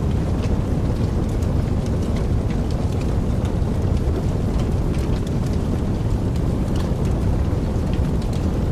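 Wood fire burning in a fireplace: a steady low rumble of flames with many small, scattered crackles and pops throughout.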